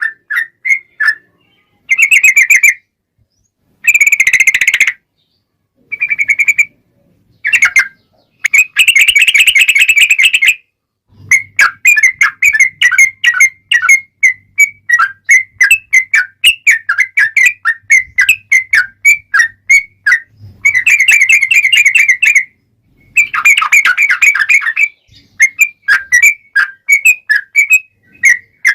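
Yellow-vented bulbul (trucukan) singing: loud, bubbly chirping notes and several long, fast trilled runs, with short pauses between phrases.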